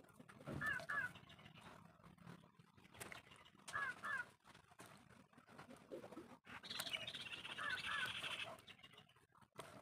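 A bird calling: a pair of short curved notes, repeated three times about every three and a half seconds, with a harsher chattering call overlapping the last pair.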